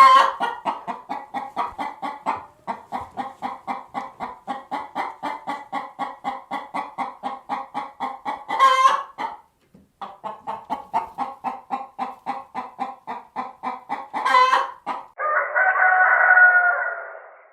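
Chickens clucking in a fast, even run of about three to four clucks a second, broken twice by a louder, higher call, then a rooster crowing for about two seconds near the end.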